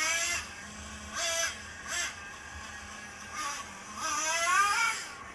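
RC trucks' motors whining in several short bursts, the pitch climbing and falling as the throttle is blipped on and off.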